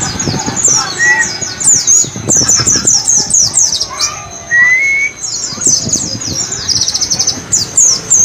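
Pleci (white-eye) song in the 'ngalas' style: a rapid, continuous run of high chirps that sweep downward, with a fast trill about seven seconds in and two lower whistled glides near the start and the middle.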